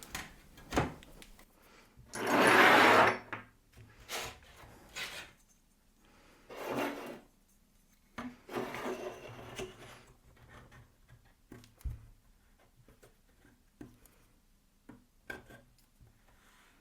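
Wood being slid and rubbed against wood on a workbench: one loud scrape of about a second, then several shorter scrapes and a few light knocks.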